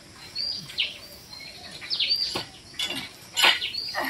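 Small birds chirping: many short, separate calls, some sweeping downward in pitch, repeated irregularly.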